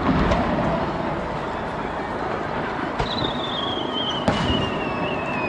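Aerial fireworks at a display: a few sharp bangs of shells bursting, near the start, about three seconds in and again a second later. From about three seconds in a thin whistle glides slowly downward, over a steady murmur of crowd and open-air noise.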